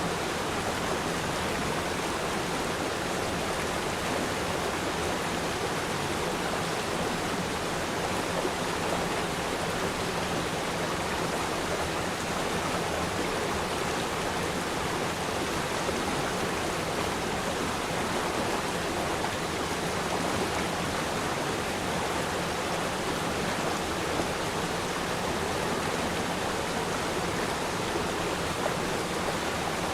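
Flowing river stream: a steady, even rush of water with no changes.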